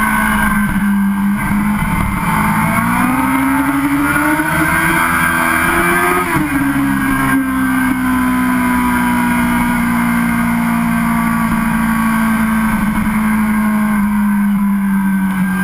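Sport motorcycle engine heard onboard while riding at speed, with road and wind noise. The engine pitch rises for a few seconds under throttle, drops sharply about six seconds in, then holds steady and eases off slightly.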